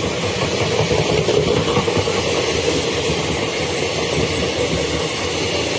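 Indian Railways passenger coaches rolling past close by on the near track: a steady, loud noise of wheels running on the rails.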